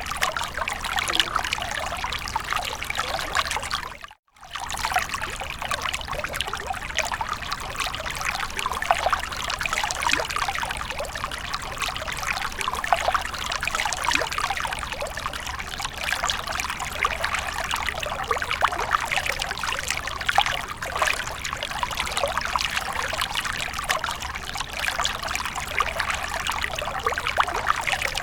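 Fountain water trickling and splashing steadily, with a brief silent gap about four seconds in.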